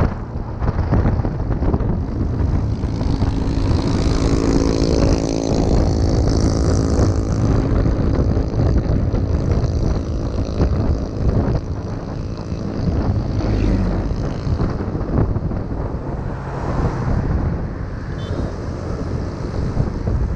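Motorbike being ridden: its engine running under heavy wind buffeting on the microphone. A steadier engine tone stands out for a few seconds about four seconds in.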